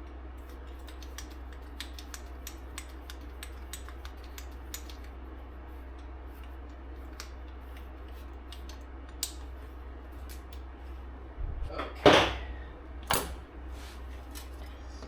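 Hand tools being handled during brake and hub work: a run of light, irregular clicks and ticks, then two louder knocks about a second apart near the end.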